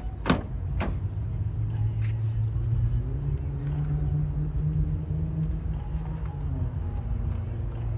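Toyota Yaris engine running with its newly fitted serpentine belt, revving up a little about two and a half seconds in, holding, then settling back to idle near the end. Two sharp clicks near the start.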